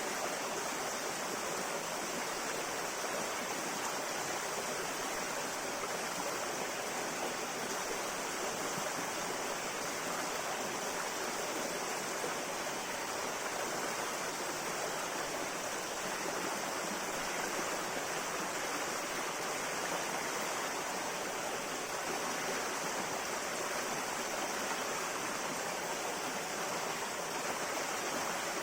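River water flowing with a steady, even rush that does not change.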